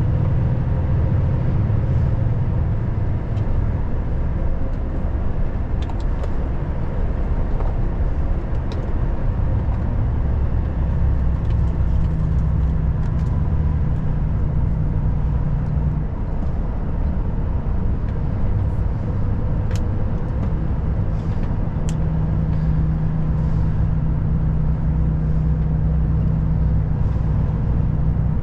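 Volvo FH540 truck's engine and road noise droning steadily on the move, with faint steady tones above the drone and scattered light ticks.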